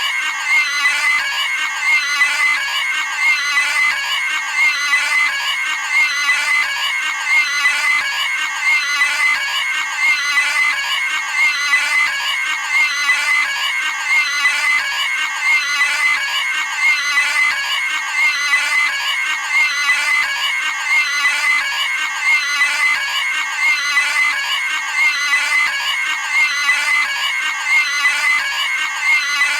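Cartoon pig-scream sound effect: one short, high squeal repeated over and over in an even loop, roughly one scream every second and a half.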